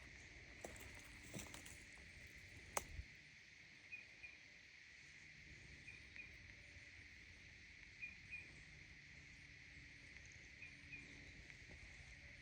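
Faint, steady insect chorus with a high, even drone, with short paired chirps about every two seconds. A few clicks in the first three seconds, one sharper snap among them.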